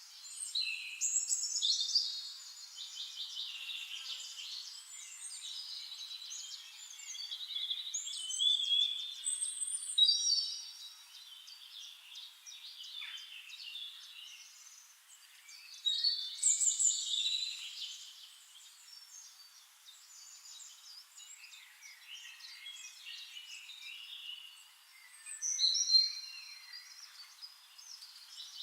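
Several birds singing and calling over one another: overlapping chirps, trills and whistled phrases, with louder flurries of song every several seconds.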